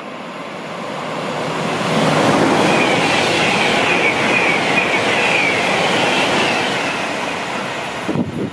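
An electric multiple unit passing at speed. Its wheel and air rush builds over about two seconds, stays loud with a wavering high whine, then fades as it goes away. A few short bumps come near the end.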